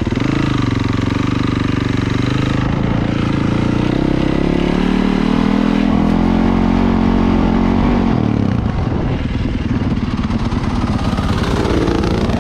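Dirt bike engine pulling in first gear: its revs climb steadily from about four seconds in, then drop off sharply about eight seconds in and run on lower and rougher.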